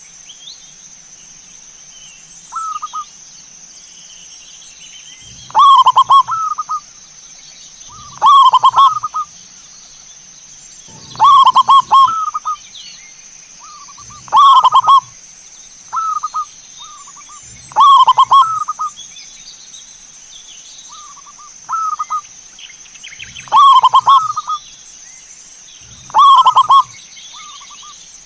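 Zebra doves cooing: a loud rolling coo repeated about every three seconds, with softer short coos in between, over a steady high hiss.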